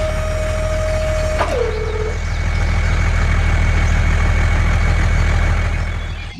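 Truck engine running steadily with a low rumble, joined by a steady high tone that drops in pitch about a second and a half in and stops soon after. The sound cuts off abruptly at the end.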